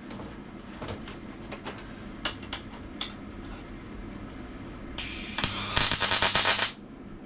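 A few sharp clicks and taps, then a MIG welder's arc crackling in two short bursts near the end while tack welds go onto the steel panel, over a steady low hum. The welder is said to keep breaking up, its wire sticking.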